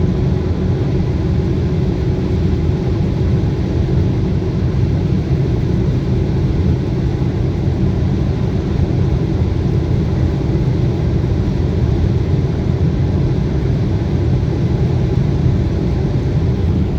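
Audi A3 1.8 TFSI, a turbocharged four-cylinder petrol car, running at high speed: a loud, steady rumble of engine, tyre and wind noise with no gear changes.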